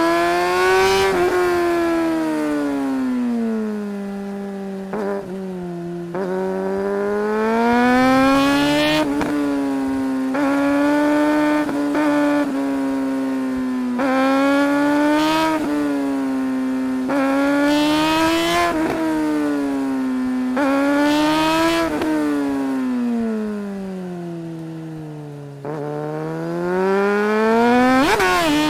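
2008 Suzuki GSR 600's inline-four engine under hard acceleration, its pitch climbing through the revs and dropping suddenly at each quick upshift, several times in a row. Twice the note sinks slowly as the bike slows off the throttle, and near the end it revs hard again.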